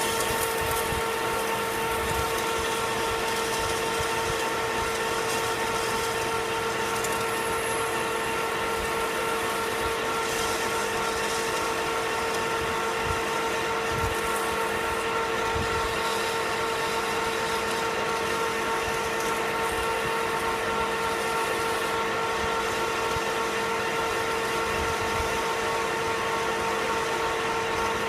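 Metal lathe running steadily in forward, a constant whine of several fixed tones over a hiss, while the turned steel part is polished.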